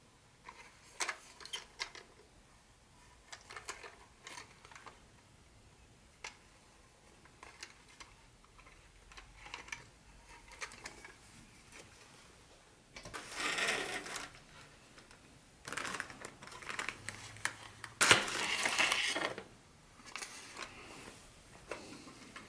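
Hands handling model train pieces and their packaging in an unboxing: scattered light clicks and taps, then two longer bursts of rustling, one about 13 seconds in and a louder one from about 16 to 19 seconds.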